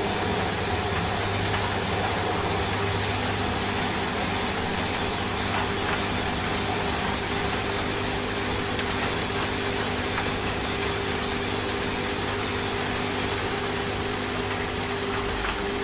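Steady rain hiss mixed with a washing machine running, its motor giving a steady low hum.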